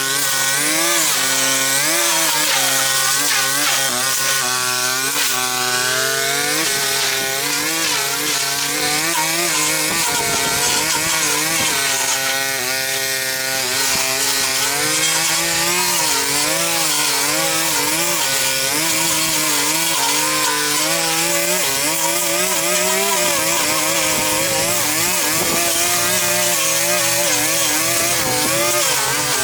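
Small engine of a handheld power tool running while it cuts, its pitch rising and falling as the load changes.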